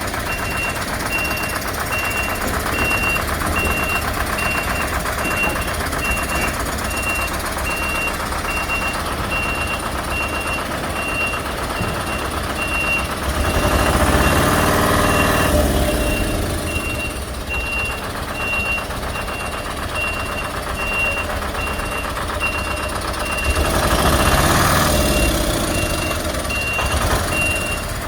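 Heavy vehicle's reversing alarm beeping at an even rate over a running diesel engine. The engine noise swells twice, once about halfway through and again near the end.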